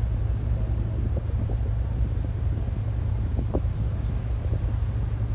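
Steady low engine rumble, with wind noise on the microphone.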